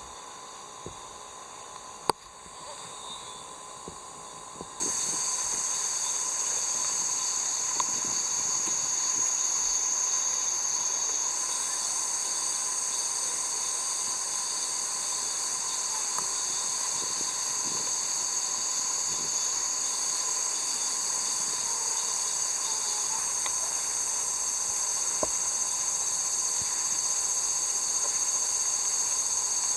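Steady, high-pitched chorus of summer insects, a continuous shrill buzz. It becomes suddenly louder about five seconds in, and there is one sharp click about two seconds in.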